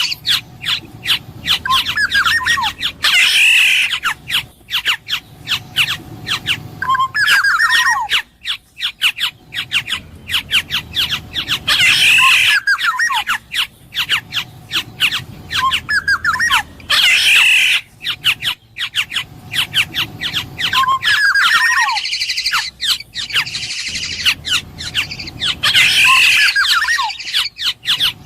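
Black-naped oriole calling over and over: harsh squawks alternate with short whistled notes, among many sharp clicks, in a phrase that repeats every few seconds.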